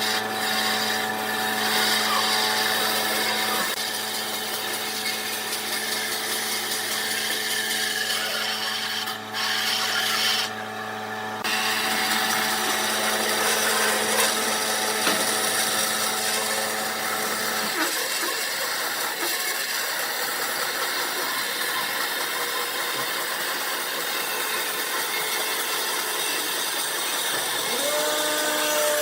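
Woodturning lathe running, with a tool cutting and scraping the spinning wood. There is a steady motor hum under the scraping, and the sound changes abruptly a few times, with the low hum stopping a little over halfway through.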